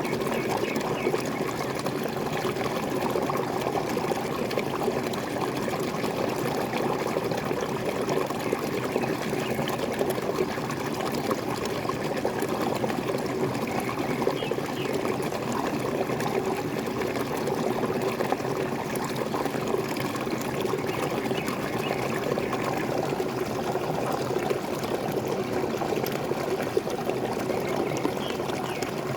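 A small waterfall splashing and pouring steadily, an even rush of falling water.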